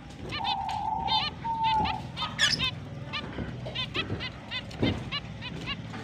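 Pet finches chirping busily, many short repeated chirps overlapping. Near the start one bird gives a longer nasal, honking call lasting over a second, and a high rising call cuts in about halfway through.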